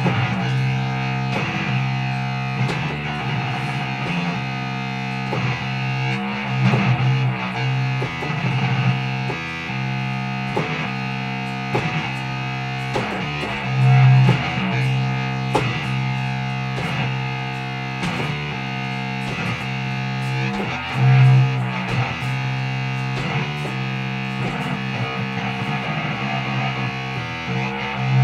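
Instrumental stretch of a rock song: distorted electric guitar with bass and drums playing a steady groove, without vocals.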